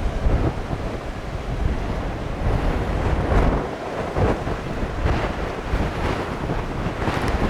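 Strong wind buffeting the microphone in uneven gusts, a deep rumbling rush.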